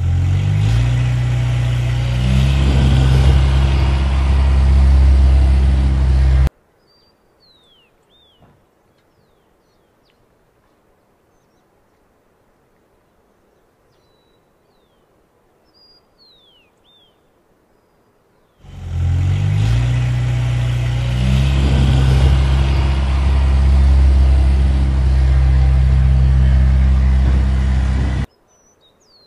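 Pickup truck engine running and pulling away, its pitch stepping up over the first couple of seconds, then cutting off abruptly after about six seconds. Birds chirp in the quiet that follows. About eighteen seconds in, the engine sound comes back for about ten seconds and again stops abruptly.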